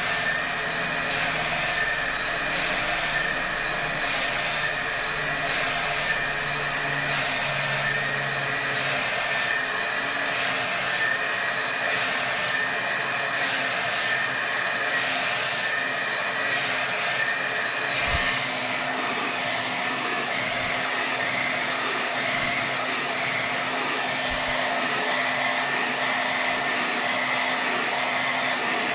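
Hair dryer running continuously at full power: a steady rush of air with a high whine, pulsing slowly about once a second for the first part.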